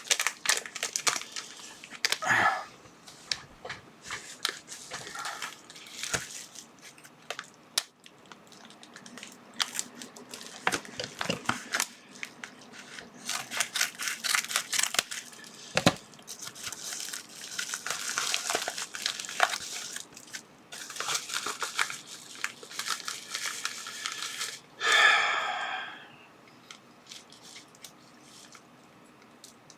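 Plastic packaging crinkling and tearing as small parcels are handled and opened by hand, with scattered clicks and taps. There is a louder rasp lasting about a second near the end.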